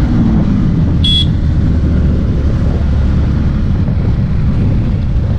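Yamaha MT-15 motorcycle riding along the road: steady engine rumble mixed with wind buffeting the microphone, with a short high beep about a second in.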